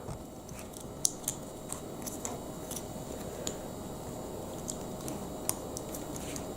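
Small scattered clicks and taps of plastic Lego Technic pieces being handled and pushed together, about a dozen light clicks spread irregularly over a faint steady room hum.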